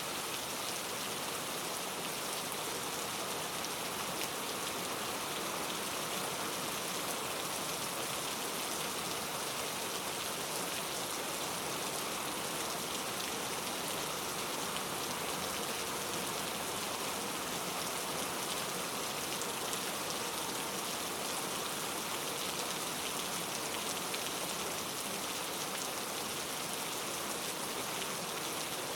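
Steady rain falling, an even, unbroken hiss of many drops at a constant level.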